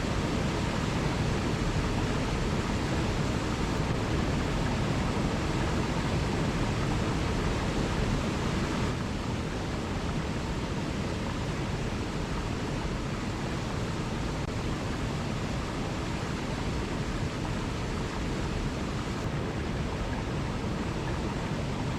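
Waterfall rushing in a steady, even wash of water noise, fullest in the low end, dropping slightly in level about nine seconds in.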